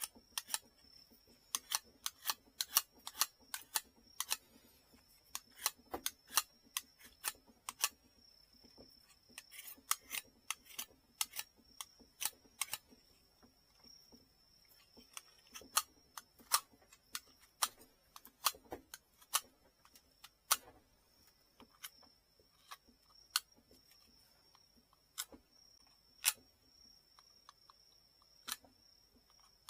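Irregular sharp clicks and taps of hand tools working on a bamboo rod tip, fast and dense at first and sparser later, over a faint high whine that comes and goes.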